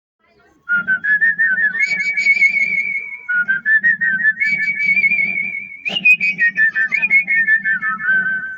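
A person whistling a melody with vibrato in three phrases, the last stepping down in pitch, over a low pulsing accompaniment.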